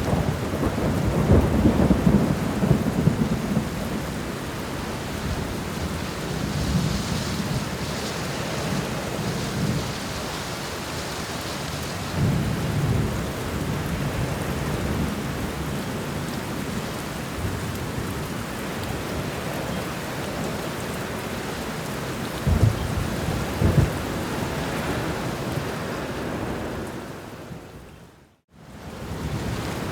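Steady rain with thunder rumbling, a long roll in the first few seconds and another about twelve seconds in, then two sharper claps a second apart. Near the end the sound fades out to a moment of silence and fades back in.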